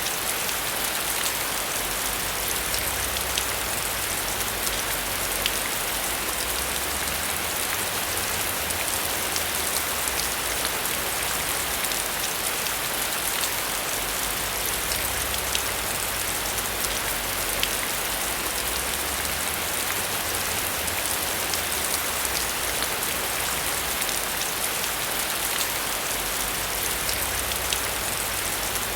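Steady heavy rain, with dense drop ticks pattering on a surface and a faint low rumble that swells and fades.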